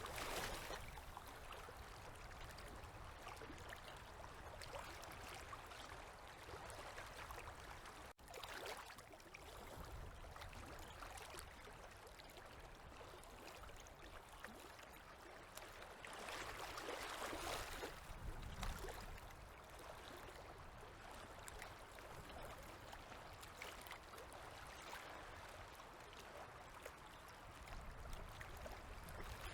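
Small river waves lapping at the shore, a soft steady wash of water that swells louder for a couple of seconds about halfway through.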